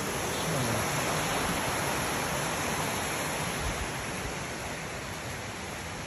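Steady rush of falling and flowing water from a waterfall and its creek, easing slightly near the end.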